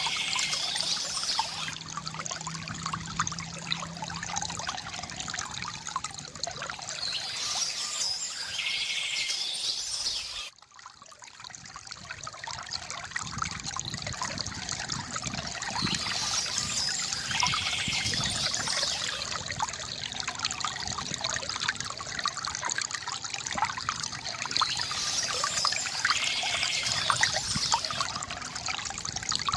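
Water trickling and splashing steadily from a bamboo fountain, with birds chirping every several seconds. The sound drops out briefly about ten seconds in, then resumes.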